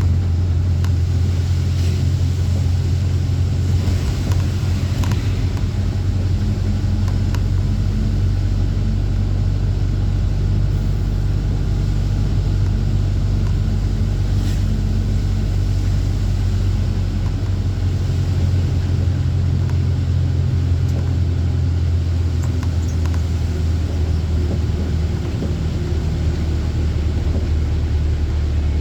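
Truck's diesel engine running steadily while under way, a low, even drone with only a slight change in pitch partway through; a few faint clicks or rattles now and then.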